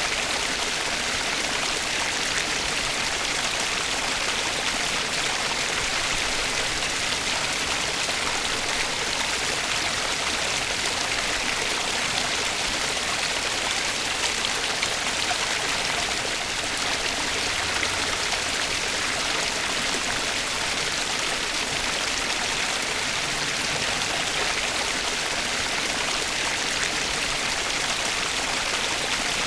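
Flowing water running steadily, an even rushing hiss with no breaks or changes.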